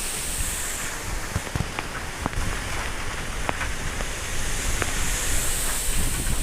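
Strong wind blowing, a steady rushing hiss with a few sharp ticks scattered through it.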